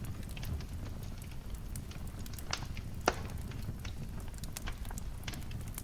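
Wood fire crackling in a fireplace: irregular sharp pops and snaps over a steady low rumble, with one louder pop about three seconds in.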